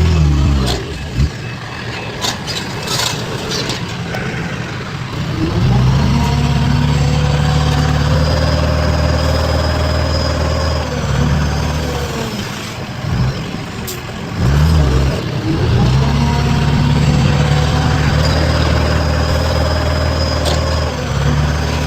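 Heavy-machinery diesel engine revving up and holding high revs, then easing off and revving up again. A few sharp knocks come near the start.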